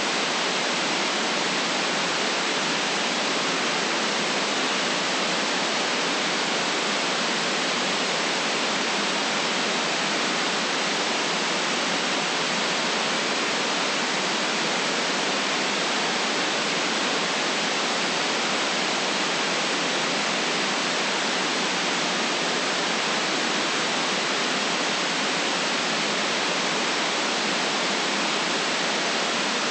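Steady electronically generated white noise: an even, unchanging hiss.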